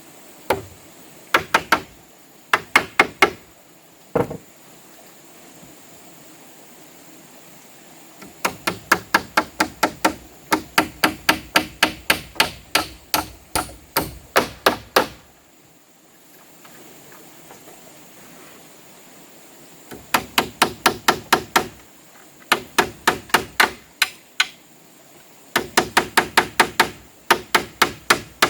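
Hammer blows on wood, struck rapidly at about four to five a second in runs of a few seconds with short pauses between, plus a few single strikes near the start.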